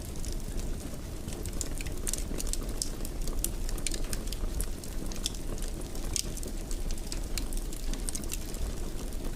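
Wood fire burning in a fireplace: a steady low rumble of flames with many sharp crackles and pops at irregular intervals.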